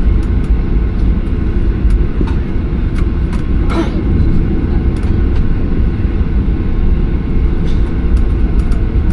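Steady low rumble inside a Boeing 737-800's cabin on the ground after landing: the jet engines and airframe running, with a few faint clicks and rattles.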